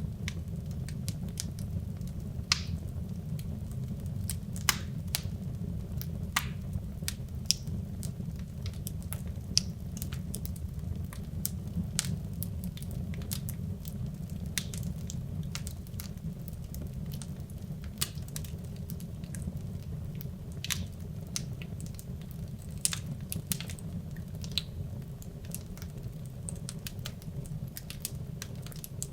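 Wood logs burning in a fireplace: a steady low rush of flame with irregular sharp crackles and pops from the burning wood, a dozen or so louder pops among many small ones.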